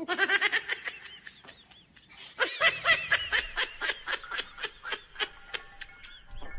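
A person laughing hard in quick high-pitched peals. The laughter breaks off briefly about two seconds in and starts again.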